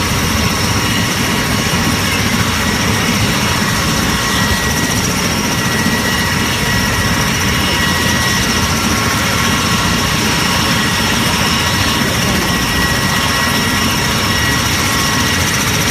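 Aeroplane in flight: a loud, unchanging drone of engine and rushing air, with a constant high whine running through it.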